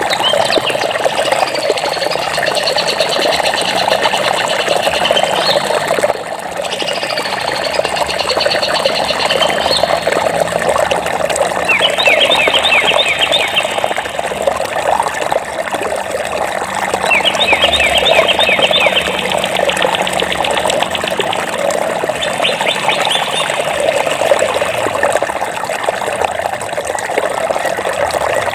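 Steady rush of flowing stream water, with songbirds chirping over it: warbling calls at first, then several quick trills in rapid repeated notes.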